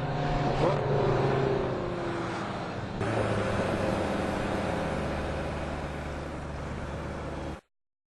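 Car engines running at speed, with a falling pitch as a car passes about a second in and a sudden jump in the sound about three seconds in. The sound cuts off abruptly near the end.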